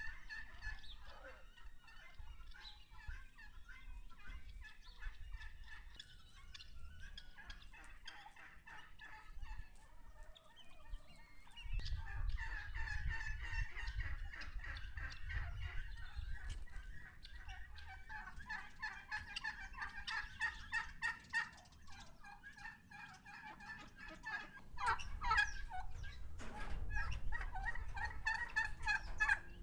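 Farmyard poultry calling: a dense, fast chattering of many calls that grows thicker and louder about twelve seconds in, over a low rumble.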